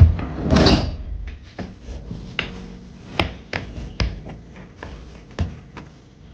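Household objects being handled: a short noisy burst about half a second in, then a scattered string of sharp light clicks and taps.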